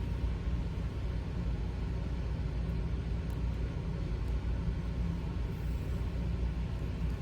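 Steady low rumble of background noise, unchanging throughout.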